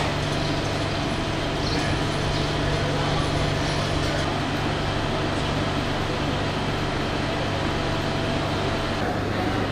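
Steady low hum of idling diesel trains standing at a platform, mixed with the general murmur and bustle of people moving about.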